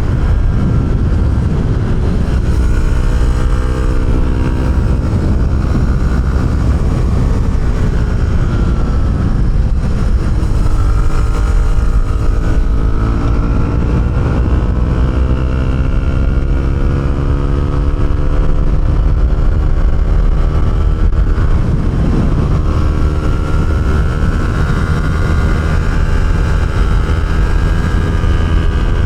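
Honda CB125R single-cylinder four-stroke engine through an aftermarket Arrow exhaust, running under load while riding. Its pitch climbs steadily as it accelerates, then drops back about a third of the way in and again about three-quarters of the way through before climbing once more.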